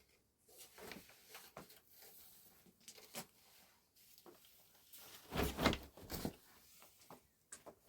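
Irregular knocks, clicks and rustling from objects being handled, with a louder scraping clatter about five and a half seconds in.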